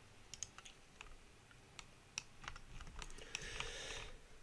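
Faint, irregular key clicks and taps on a computer keyboard, with a brief soft hiss about three seconds in.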